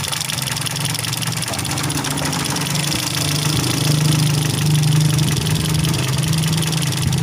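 Toyota Vios 2NZ-FE inline four-cylinder petrol engine idling steadily, a little louder about four seconds in. This happens during a misfire test in which the ignition coils are unplugged one at a time to find the dead cylinder behind a rough idle.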